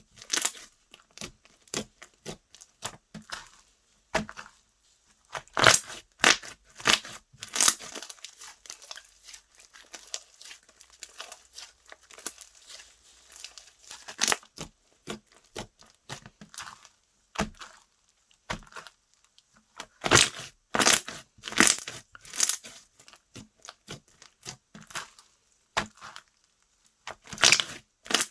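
Hands squeezing, stretching and poking slime: irregular sharp pops and crackles as air pockets burst. The pops are sparse in the middle and come in quick clusters near the end.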